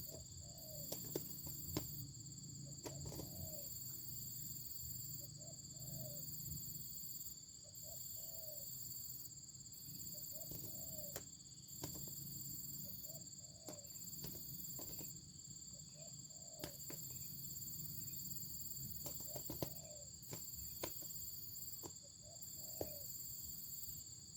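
Wild doves cooing: short, low coos repeated every second or two, with a few sharp clicks in between.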